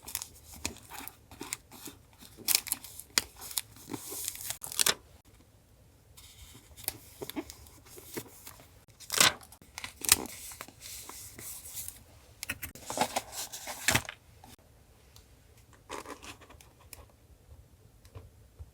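Paper being handled and torn by hand, in short irregular rips and rustles that come in clusters with pauses between them.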